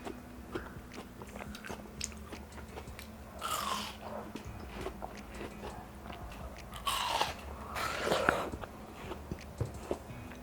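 Close-up biting and chewing of ripe watermelon, juicy and crunchy, with two louder bites about three and a half seconds in and around seven to eight seconds in, and wet chewing clicks in between.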